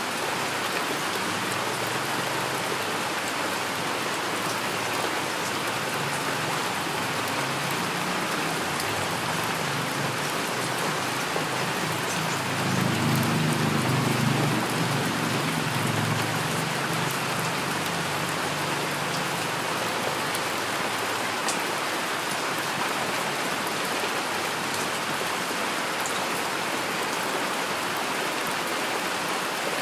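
Heavy rain falling steadily. A low rumble of distant thunder swells near the middle and fades away.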